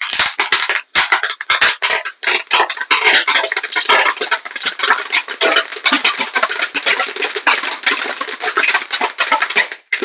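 Firecrackers going off in a dense, rapid crackle of small sharp bangs for about ten seconds, then stopping abruptly.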